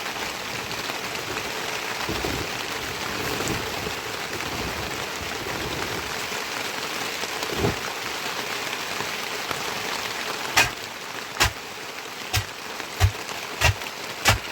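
Heavy rain falling steadily. In the last few seconds, a series of sharp knocks about every two-thirds of a second cuts through the rain.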